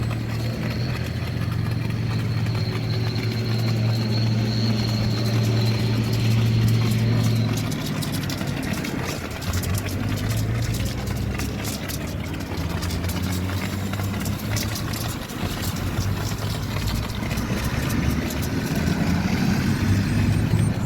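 An engine runs steadily with a low hum, and its tone shifts about eight seconds in.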